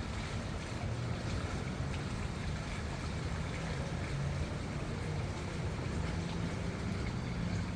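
River swollen after heavy rain, its water rushing past the bank in a steady, unbroken rush with a low rumble.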